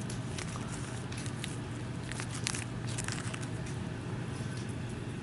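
A cat chewing dried catnip: soft, irregular crunching clicks, busiest in the middle, over a steady low hum.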